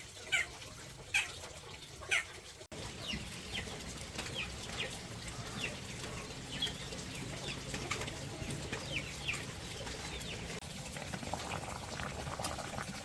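Birds chirping: many short, high, falling chirps at irregular intervals.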